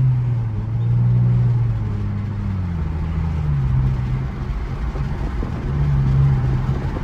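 Ford Mustang GT's V8 engine and exhaust running under throttle, heard from inside the car; its low note rises and falls several times as the throttle opens and eases off. It is loud enough to draw attention.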